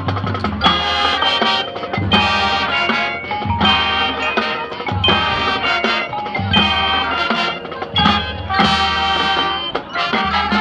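Marching band playing: brass chords in short phrases over bass notes and drums.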